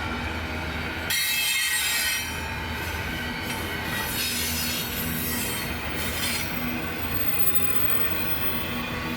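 Cars of a CN freight train rolling past with a steady low rumble, and high wheel squeal rising over it about a second in and again through the middle.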